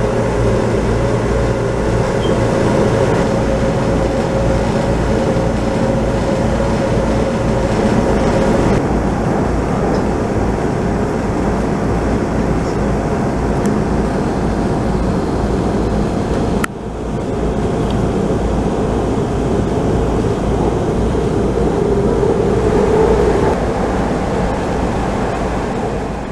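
Steady running noise inside a Taoyuan Airport MRT train car moving at speed, with a faint steady tone over the rumble. A sharp click and brief dip in level come about two-thirds of the way through.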